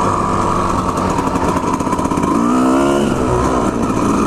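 Two-stroke dirt bike engine running under way, with a brief rise in revs a little over two seconds in.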